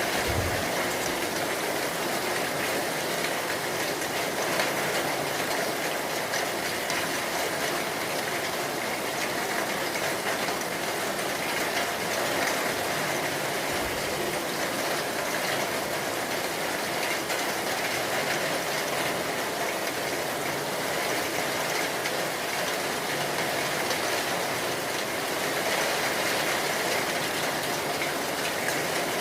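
Steady heavy rain, an even hiss without a break.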